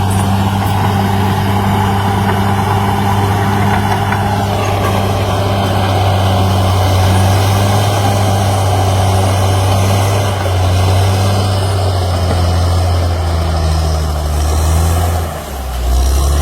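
Caterpillar D6R XL bulldozer's diesel engine running steadily. Its pitch drops slightly about ten seconds in, and near the end there is a brief dip in loudness before it settles at a lower speed.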